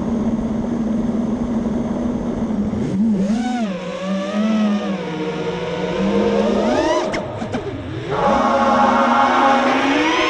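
FPV quadcopter's brushless motors whining, heard from the onboard camera. The pitch holds steady for about three seconds, then swoops down and up repeatedly with the throttle, and climbs and gets louder near the end.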